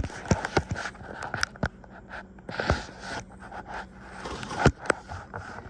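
A phone being handled and propped up against something: irregular knocks, taps and scrapes right on its microphone, the loudest knock a little before the end.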